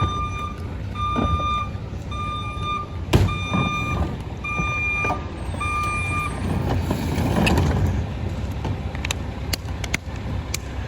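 Split-body garbage truck's reversing alarm beeping about once a second over the steady rumble of its engine, stopping about six seconds in. A single sharp bang, the loudest sound, comes about three seconds in.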